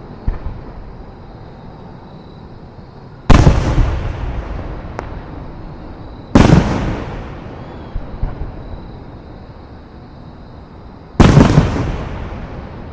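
Aerial fireworks shells bursting: three loud booms a few seconds apart, each rolling off in a long echo, with a few smaller pops between.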